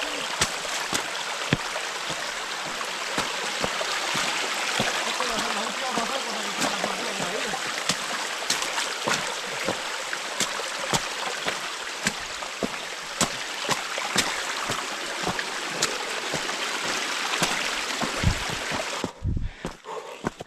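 A trail runner's footsteps, regular knocks about twice a second, over a steady rushing noise like a stream or wind. The rushing cuts off abruptly near the end, leaving the footfalls.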